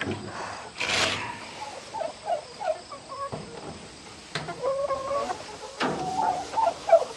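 Chickens clucking in many short repeated calls, with a brief rustle about a second in.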